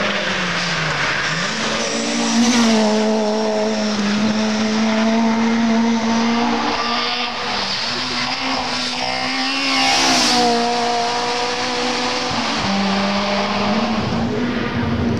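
Rally car engine running hard on a gravel stage, its pitch rising and dropping as it revs and changes gear, with tyre and gravel noise; it gets louder about two and a half seconds in and again about ten seconds in.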